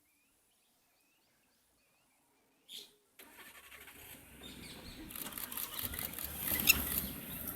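Safari vehicle's engine starting about three seconds in and running, getting steadily louder. Faint bird chirps come before it.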